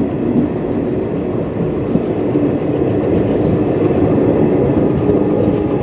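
Passenger train running along the track, heard from on board: a steady rumble and rattle of the carriage, with wind rushing past.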